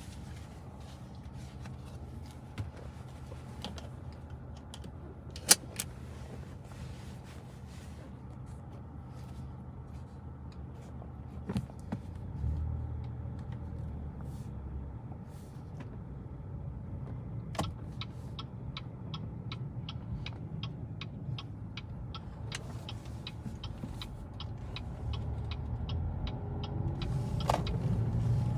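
Car engine and drive heard from inside the cabin: a low steady hum that strengthens about halfway through and grows louder near the end as the car pulls away. In the second half, a regular ticking of about two a second runs for some ten seconds, the turn-signal indicator.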